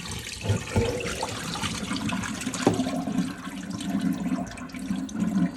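Water splashing and running into a kitchen sink as dirty rinse water is poured off raw chicken, with a couple of knocks in the first second.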